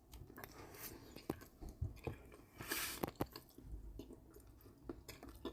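Faint close-miked chewing and mouth sounds of someone eating red caviar on a soft bun, with scattered small clicks and a brief louder noise a little under three seconds in.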